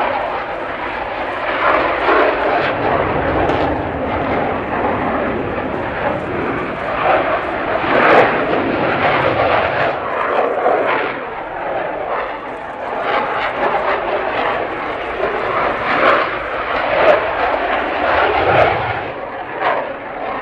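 Jet noise from Panavia Tornado aircraft and their RB199 turbofan engines, steady with irregular swells, with people's voices underneath.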